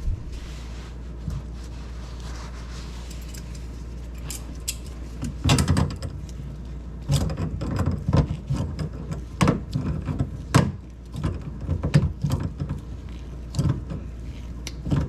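Irregular clicking and clattering of tools and small metal parts being handled, starting about five seconds in, over a steady low hum.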